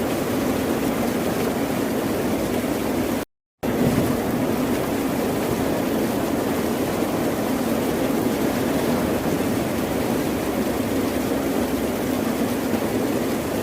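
Steady wash of ocean surf with no distinct wave breaks. It drops out to dead silence for a fraction of a second about three seconds in, then resumes.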